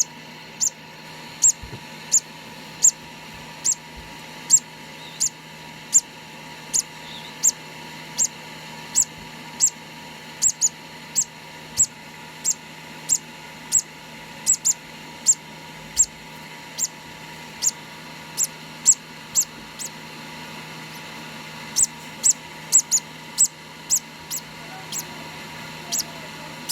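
Two-day-old conure chick peeping: short, high, thin cheeps about one and a half a second, with a short pause near the end. These are the chick's food-begging calls during hand-feeding.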